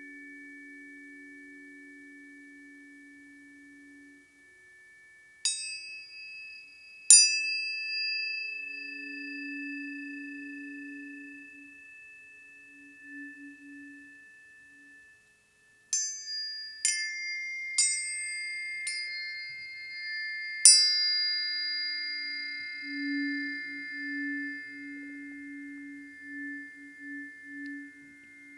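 Planetary tuning forks struck one after another and left ringing in long, steady, bell-like tones. Two strikes come about two seconds apart early on, then after a pause five strikes about a second apart, their tones overlapping, with a low pulsing hum beneath.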